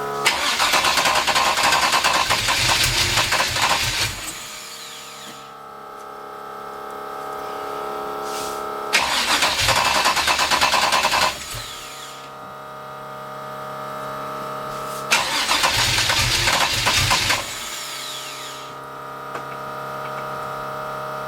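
383 stroker V8 with a solid roller cam and gear-drive timing being fired up and run in three loud bursts of about two to four seconds each. Between the bursts it drops back to a quieter, steady sound as it struggles to keep running by itself.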